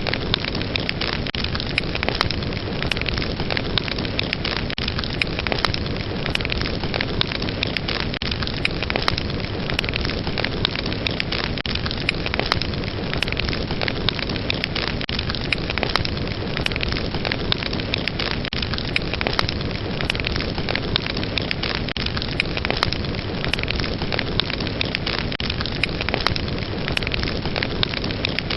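Fireplace fire burning with a steady hiss and a dense run of sharp crackles and pops.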